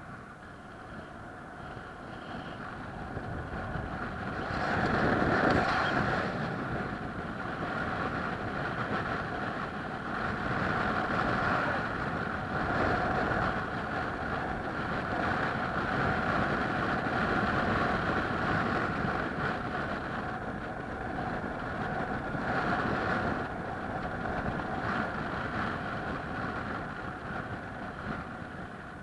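Steady vehicle running noise that grows louder over the first five seconds, holds, and fades away over the last few seconds.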